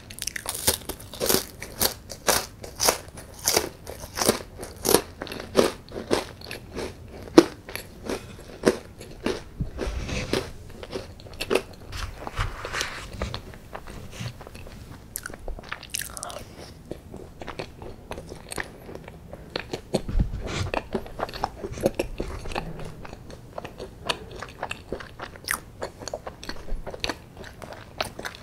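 Close-miked eating sounds: a crisp chocolate cookie is bitten and chewed, with quick, sharp crunches for the first several seconds. After that the chewing turns softer and wetter as chocolate ice cream is eaten by the spoonful.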